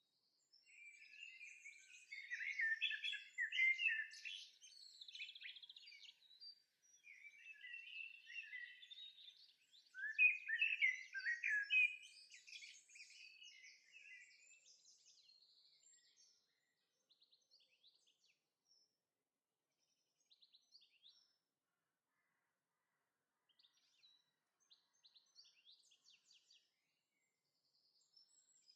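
Several songbirds singing and chirping, a busy chorus of quick high notes for about the first half, then thinning to a few scattered faint chirps.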